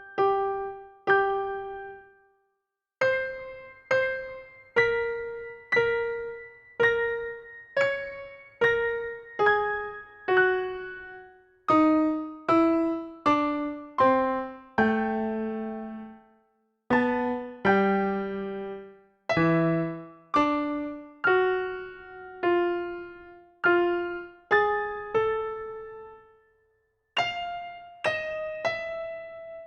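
Background music: a slow melody of single keyboard notes, one struck about every two-thirds of a second, each ringing and fading. Short pauses fall between phrases.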